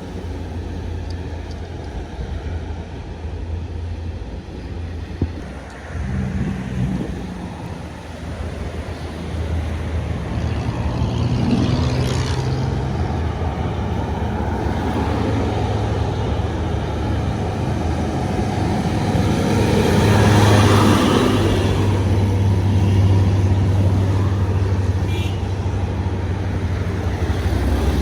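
Heavy diesel trucks passing on a road, their engines running steadily, the sound building about ten seconds in and loudest about two-thirds of the way through as a vehicle goes by close.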